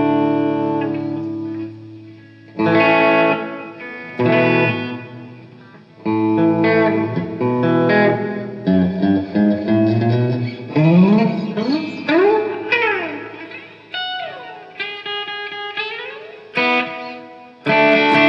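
Chibson electric guitar played through an amp on its first sound check before setup. Strummed chords are left to ring and fade, then come picked single-note phrases with pitch bends and swoops, and more chords near the end.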